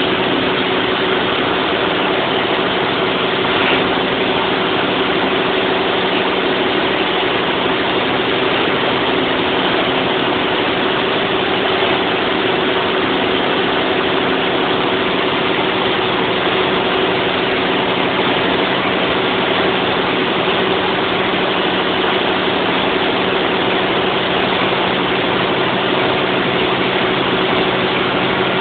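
Large generator-set engine running steadily, a constant even drone with no change in speed.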